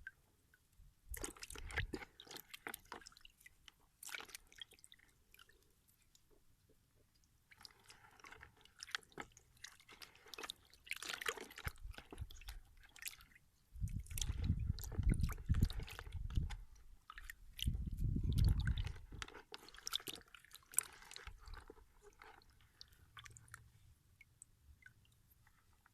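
Crisp crunching and rustling of beets being picked and handled, their leafy tops snapping, with two louder low rumbles a little past the middle.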